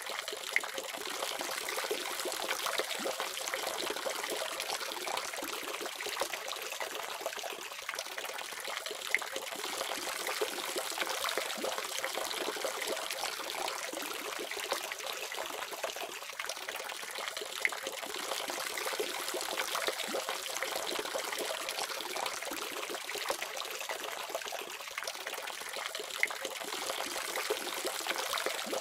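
Water running steadily from a faucet, a continuous splashing trickle with small droplet plinks scattered through it.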